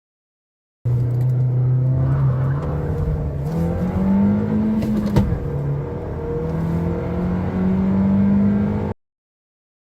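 Skoda Octavia Mk3's petrol or diesel engine under full-throttle acceleration, its pitch climbing steadily. The pitch drops at a gear change with a click about five seconds in, then climbs again. The sound begins abruptly about a second in and cuts off abruptly near the end.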